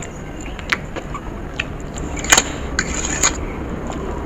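Masala Maggi noodles being eaten, heard as scattered sharp clicks and scrapes. The loudest click comes about two and a half seconds in, followed by a short noisy scrape around three seconds, all over a steady low hum.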